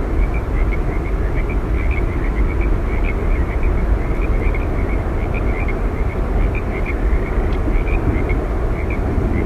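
Steady, loud roar of Yosemite Falls, the falling water heaviest in the low end, with many short high chirps scattered over it.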